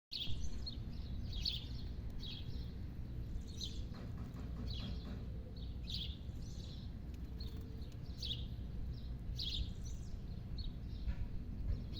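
Birds chirping: short high calls repeated about once or twice a second, over a steady low background rumble.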